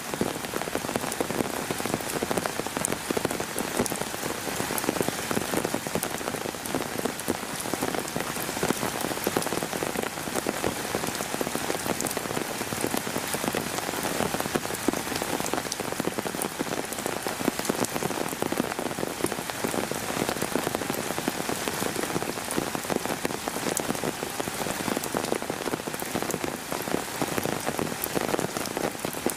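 Heavy summer rain falling steadily, a dense hiss of drops with many individual drops ticking close by.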